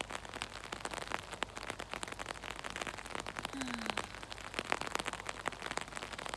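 Steady rain hitting an umbrella close to the microphone: a dense, irregular scatter of sharp drop hits.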